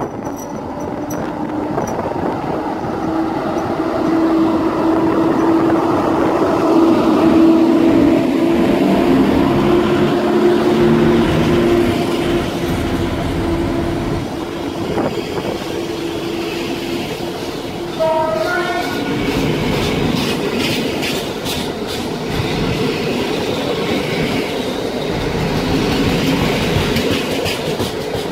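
An EP07 electric locomotive pulling a rake of Intercity coaches away from the station: a steady machine hum swells as the locomotive passes close and then fades. After a brief stepped rising tone about two-thirds of the way through, the coaches' wheels click over the rail joints as the train gathers speed.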